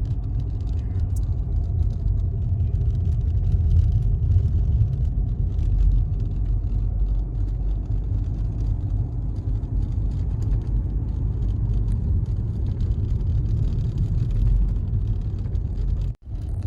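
Motor vehicle travelling along a road: a steady low rumble of engine and road noise.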